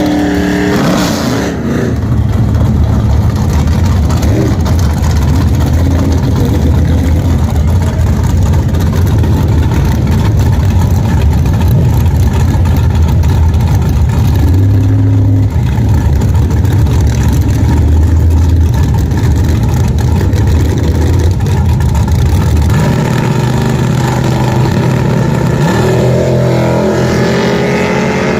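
Pontiac's engine running hard under load for about twenty seconds during a drag-strip pass, with a brief change in its note about halfway through, then easing off about twenty-three seconds in.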